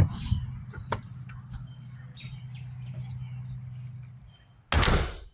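Birds chirping over a steady low hum, with a couple of sharp clicks early on. About four and a half seconds in there is a brief loud rush of noise, and then the outdoor sound cuts off.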